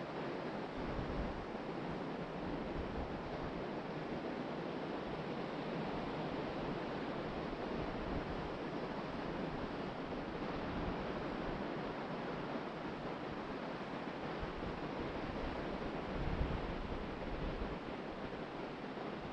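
Ocean surf washing onto the beach in a steady rush, with wind buffeting the microphone in low rumbling gusts, one stronger gust near the end.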